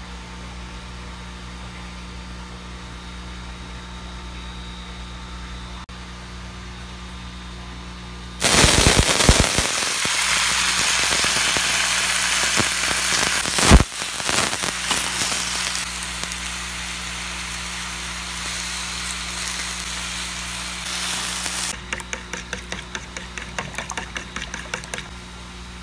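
A low steady hum, then, about eight seconds in, loud sizzling and crackling as quartered tomatoes hit hot oil in a wok, with a sharp crack a few seconds later; the sizzle settles and eases. Near the end a fork or chopsticks beat eggs in a bowl with quick clicks, about five a second.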